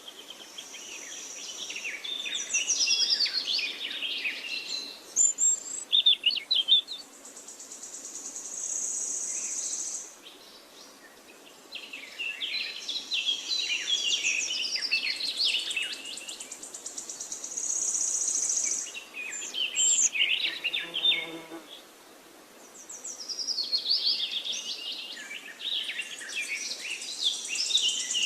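Songbirds chirping and twittering in repeated flurries of quick high notes, over a steady high-pitched buzz like insects. A short, lower call cuts in about two-thirds of the way through.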